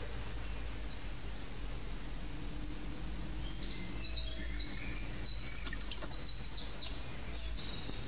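A small songbird singing: series of quick, high, falling chirps and a fast trill from about three seconds in, over a low steady hum.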